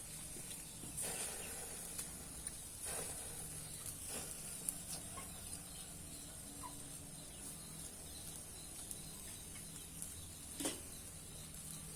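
Beef sizzling on a grill: a steady faint hiss, with a few light clicks and taps.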